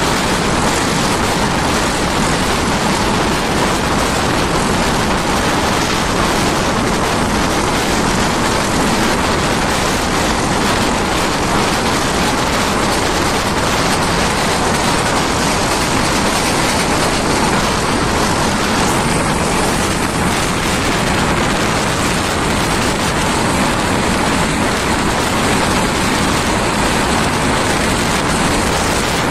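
Steady rushing noise of a passenger train running at speed, with air rushing past the open coach window and no clear individual sounds standing out.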